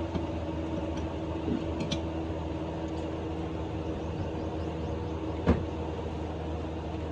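Toyota Premio's 1ZZ four-cylinder engine idling steadily after its tappets were redone, with a single sharp knock about five and a half seconds in.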